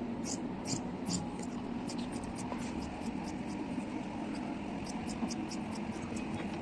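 Rapid, irregular sharp clicks, several a second, over a steady low hum.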